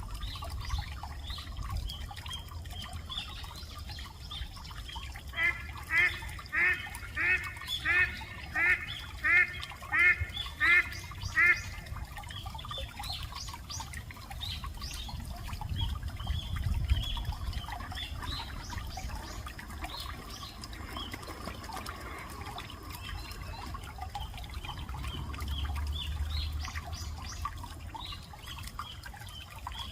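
A duck quacking about ten times in a steady run, roughly two calls a second, over a background of small birds chirping.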